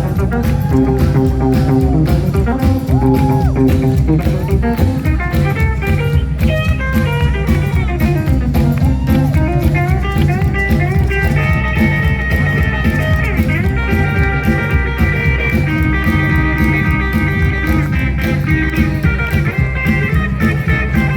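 Live rockabilly band playing an instrumental passage: electric guitar lines over a steady drum beat.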